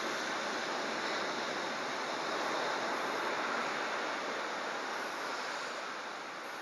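Typhoon-driven surf and wind making a steady rushing noise that swells and eases slightly, with wind buffeting the microphone.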